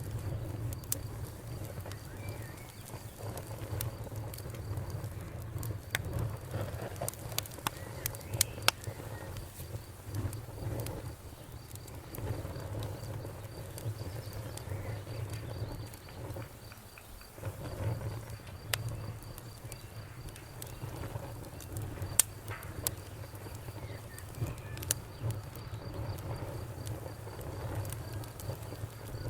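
Wood fire burning in a fireplace: a low rumble of flames under scattered sharp crackles and pops. There is a cluster of louder pops about a quarter of the way in and a single sharp pop about three quarters of the way in.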